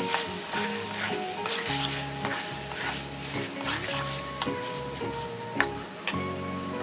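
Eel and bitter melon curry sizzling as it fries in a pan, stirred with a metal spatula that scrapes the pan now and then, under background music.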